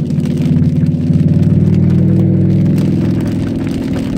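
Cadillac STS-V's supercharged V8 running under load. The engine note strengthens about a second in and then holds steady.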